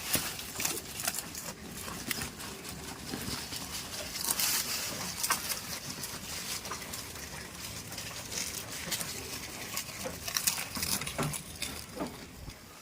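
Goats moving and feeding at close range: irregular rustling with many light clicks and knocks, and no clear bleat.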